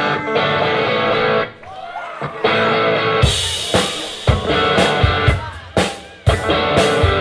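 Live rock band: an electric guitar plays a chord riff, and the drum kit comes in about three seconds in with kick drum and cymbals on a steady beat.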